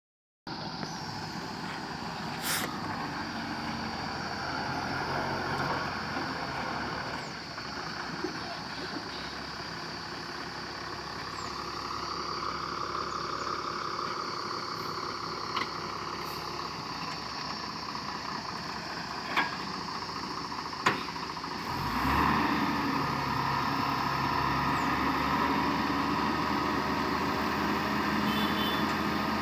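Heavy diesel engine of a truck or excavator running steadily, with a few short sharp clicks. About two-thirds of the way through, the engine note grows louder and changes pitch.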